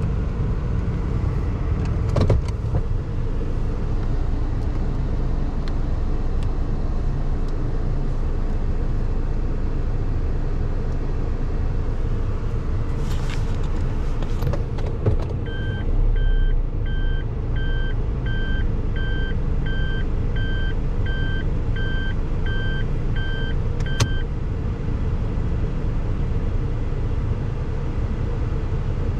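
Steady low rumble of a car running, heard from inside. About halfway through, an electronic beep repeats evenly about twice a second for roughly nine seconds, and a few short clicks come and go.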